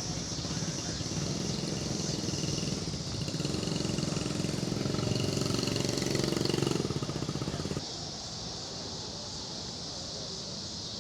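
A motorcycle engine running close by, growing louder for a few seconds, then cutting off suddenly near the end, with a steady high insect buzz behind it.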